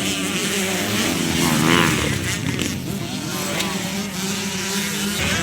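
Motorcycle engines running. One engine rises and falls in pitch about one and a half to two seconds in.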